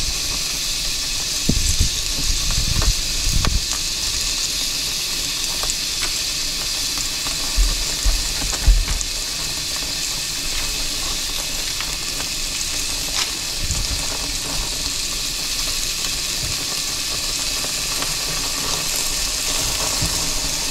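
Bacon strips and hot dogs sizzling on a portable grill: a steady frying hiss. There are a few dull knocks about two seconds in and again about eight seconds in.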